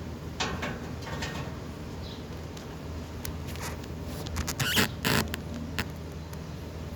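A pet bird eating and playing: scattered short scratching and crunching sounds, with a quick cluster of louder ones about five seconds in, and a faint high chirp about two seconds in.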